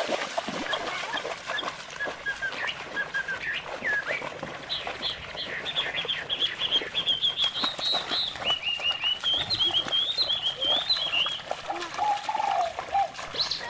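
A bird calling in a rapid run of short, high chirping notes, with lower calls near the end, over frequent small rustling clicks.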